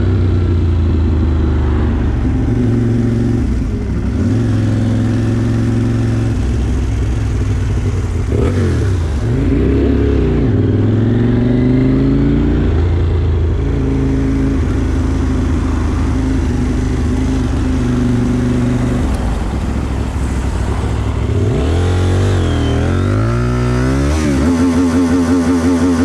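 Motorcycle engine under way, its pitch rising as it accelerates and dropping back at gear changes and when easing off, several times over.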